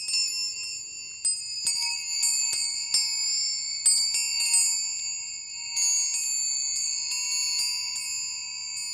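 Hand-hammered brass tines of a metal sound sculpture struck again and again at an uneven pace, each strike leaving high, sustained chiming tones that overlap into a continuous shimmer.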